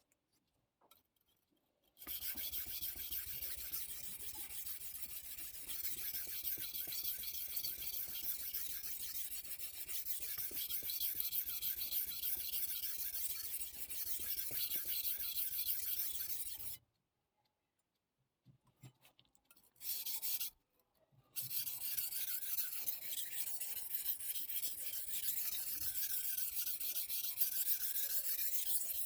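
Stainless chef knife blade being stroked back and forth across a wet Missarka combination whetstone, a continuous rasping scrape of steel on stone. It runs for about fifteen seconds, stops, gives one short burst, then resumes for the last eight seconds.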